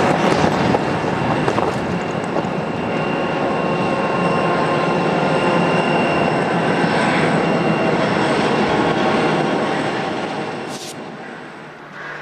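Two double-heading NSWGR C38-class steam locomotives running with a train, loud and steady, the sound dying away from about ten seconds in.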